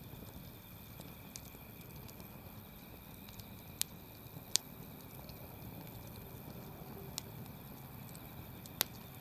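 Campfire crackling: a low steady rustle of burning wood broken by a few sharp pops, two about four seconds in and the loudest shortly before the end.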